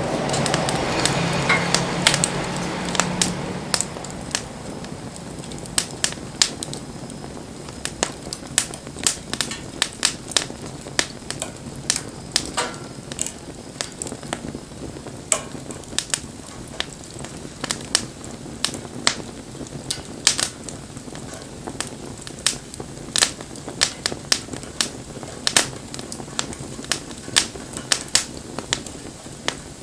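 Wood fire burning, crackling with irregular sharp pops and snaps a few times a second over a soft steady hiss; the hiss is louder in the first few seconds.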